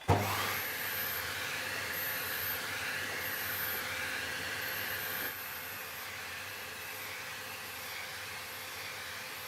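Vacuum cleaner with a soft brush attachment running steadily as it dusts the fins of an air conditioner's indoor evaporator unit; it starts up abruptly, and its sound drops slightly about five seconds in.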